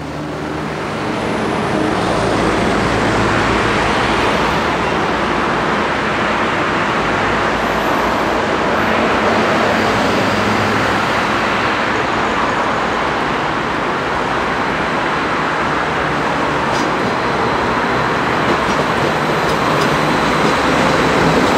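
Stadler Flirt III electric multiple unit approaching and passing: a steady rushing of wheels on rail that grows a little louder towards the end, with a few sharp clicks as the cars go by.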